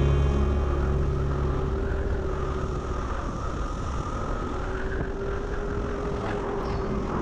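Riding noise from a Seat MO electric scooter on the road: a steady rush of wind and tyre noise with a faint, slowly wavering whine.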